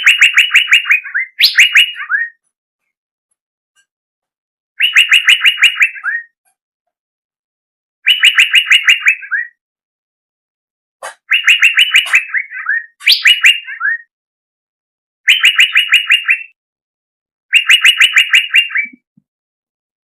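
A songbird singing one loud phrase over and over: a fast run of about eight clear notes ending in a short falling flourish, repeated about every three seconds with silent gaps between.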